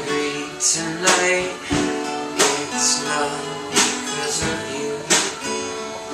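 Live band playing an instrumental passage: strummed guitars with strong accents about every 1.3 seconds.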